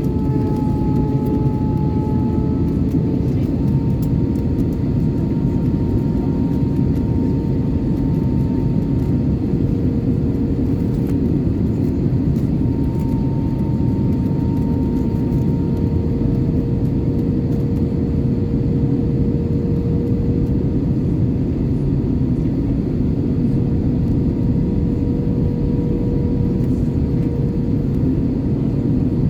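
Steady in-cabin drone of an Airbus A320-214 in flight: the rumble of its CFM56-5B engines and the airflow over the fuselage, with a few steady engine hum tones whose pitch drifts slightly as thrust changes.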